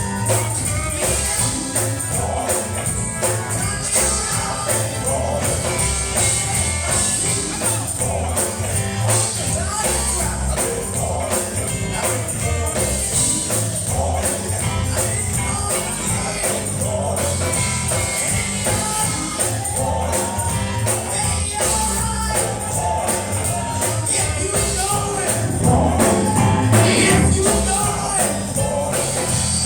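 Gospel song performed with voices singing over a band, a steady bass beat and a tambourine jingling throughout.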